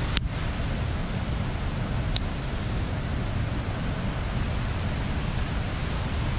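Bonfire burning with a steady rushing noise, and two sharp pops from the burning wood, one at the very start and one about two seconds in.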